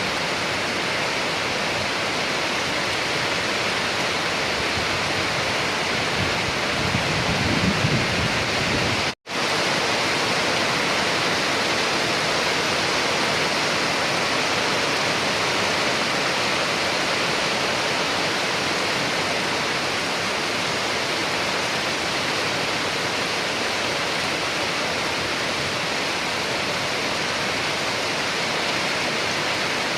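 Steady, heavy rain falling, an even hiss. A low rumble swells briefly about seven seconds in, and the sound cuts out for an instant about nine seconds in.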